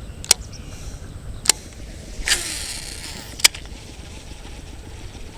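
Strong wind buffeting the microphone as a steady low rumble, with three sharp clicks about a second apart and a short hissing rush about two seconds in.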